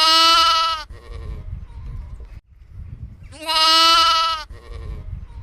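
Sheep bleating twice: two identical bleats about three and a half seconds apart, each lasting about a second, with a low background rumble between them.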